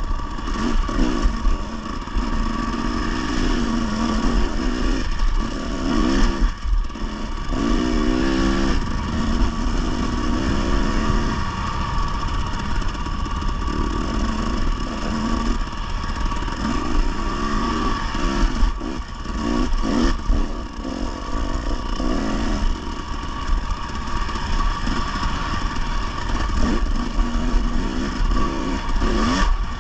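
Dirt bike engine revving up and down over and over as the bike works along rough singletrack.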